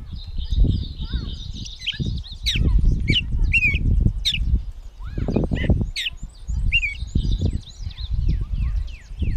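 Gray catbird singing: a long, jumbled run of short, varied squeaky and whistled notes, some slurred up or down and some buzzy, with hardly a pause. Uneven bursts of low rumbling noise run underneath.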